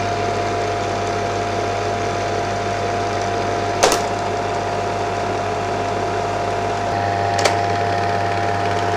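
Bell & Howell 8mm projector running in rewind, its motor and rubber-cone drive giving a steady mechanical whine over a low hum, with two sharp clicks about four and seven and a half seconds in. The even running is the sign of freshly replaced drive rubbers working properly.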